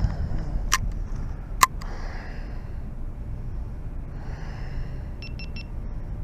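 Two sharp clicks about a second apart near the start, then soft breathy noise over a steady low rumble, and three quick high-pitched electronic beeps near the end.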